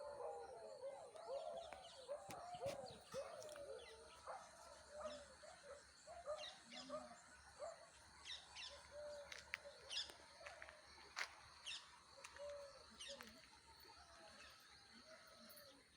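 Birds chirping, faint: many short, high chirps scattered through, with lower sliding calls mostly in the first few seconds.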